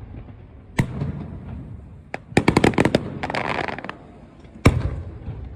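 Fireworks shells bursting: a single bang about a second in, a quick volley of sharp cracks around the middle followed by a short crackle, and a loud bang near the end, each bang trailing off in a low rumble.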